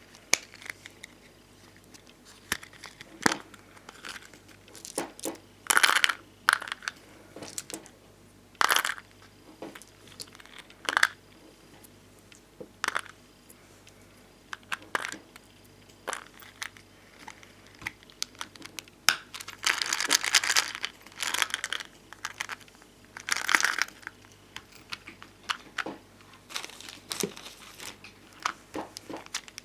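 Bonbon drop stickers and ohajiki stickers being handled close to the microphone: scattered taps, clicks and short crinkles of the plastic stickers and sheets, with a longer rustling stretch about two-thirds of the way through.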